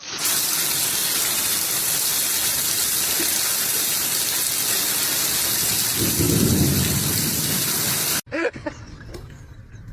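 Heavy rain falling steadily, with a low roll of thunder about six seconds in. It stops abruptly after about eight seconds.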